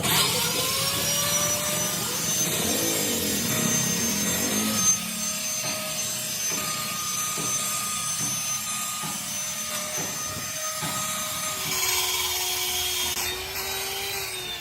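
Electric motor of a workshop power tool or machine spinning up, then running steadily with a high whine. It starts to wind down near the end.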